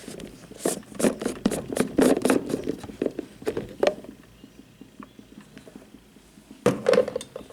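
A thermal coffee carafe being handled: a rapid run of knocks, clicks and rattles for about three seconds, then a quiet stretch and another brief cluster of knocks near the end.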